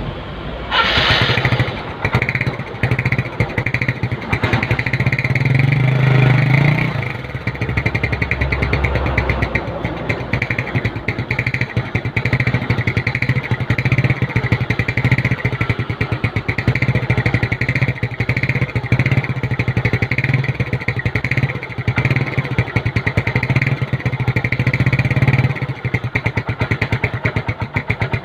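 Small automatic scooter engine running through a stock exhaust with a bent paper clip fitted into the tailpipe, which is meant to give it a deep 'mberr' burble. The engine is revved about a second in and again around five seconds in, then settles into a fast, steady putter at idle. The low rumble drops off near the end.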